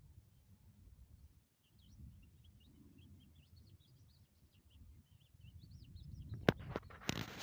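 Small songbird chirping, a quick run of short twittering notes, over a low steady rumble. Near the end, a few sharp knocks and a loud burst of rustling noise.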